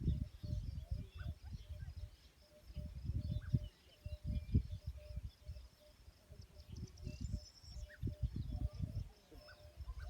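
Outdoor ambience: faint birds chirping over irregular low gusts of wind buffeting the microphone.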